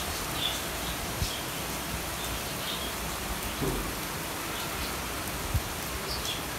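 Heavy rain falling and pattering steadily on surfaces, with a few faint high chirps and a single sharp tap about five and a half seconds in.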